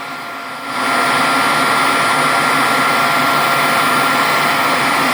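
Bagless vacuum cleaner running with a steady whine, its sound dipping at first and then rising sharply a little under a second in and holding steady while it picks up rice and debris.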